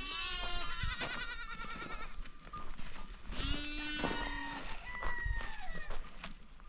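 Goats bleating, with several wavering calls overlapping: a long one at the start and another group about three and a half seconds in.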